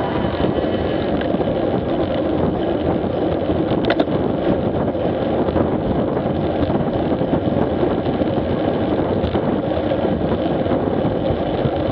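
Street motorcycle riding along at speed: engine running steadily under heavy wind rushing over the camera's microphone, with one short click about four seconds in.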